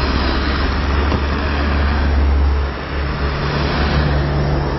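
Street traffic: a steady wash of car noise with a heavy low rumble that drops away about three seconds in, followed by a low steady engine hum.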